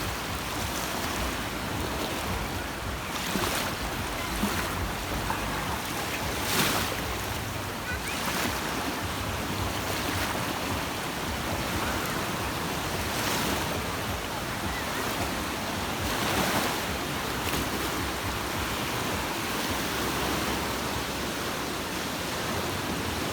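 Sea waves washing onto a beach: a steady rush of surf with louder surges every few seconds as waves break.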